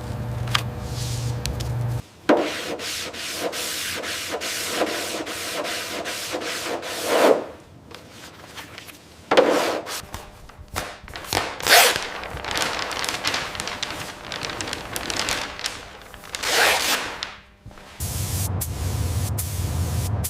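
Sanding: a series of rubbing strokes on a surface that swell and fade, with sharp clicks between them. A steady low hum runs at the start and comes back near the end.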